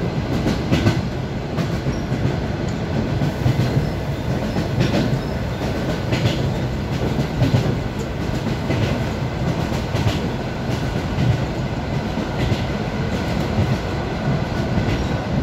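Wheels of an ED9M electric multiple unit clattering over rail joints, heard inside the passenger car: a steady running rumble with regular clacks about once a second.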